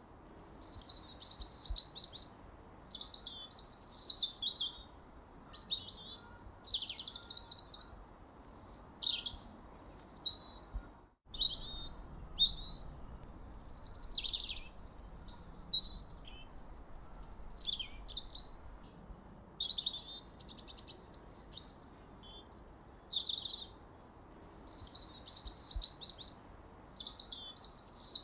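Songbirds singing: a continual run of short high chirps, trills and whistled phrases over a faint steady background hiss, broken by a brief moment of complete silence about eleven seconds in.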